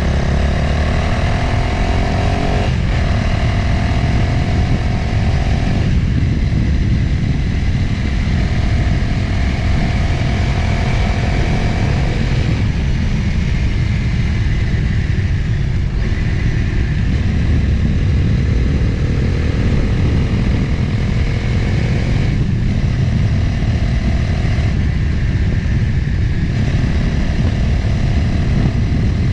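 Motorcycle engine running under way with heavy wind rushing over the microphone; the engine note steps to a new pitch several times, with short breaks, as the rider changes speed.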